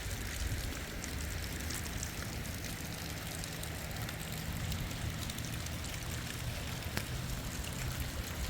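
Heavy rain falling steadily, with scattered faint drop ticks over a low rumble.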